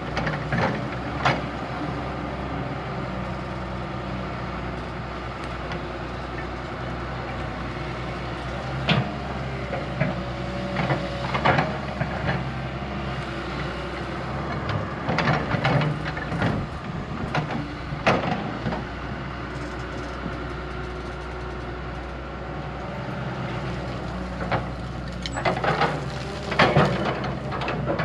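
Heavy diesel earthmoving machine's engine running steadily, with intermittent metallic clanks and knocks from its working gear, in clusters about a second in, around 9 to 12 seconds, 15 to 18 seconds, and near the end.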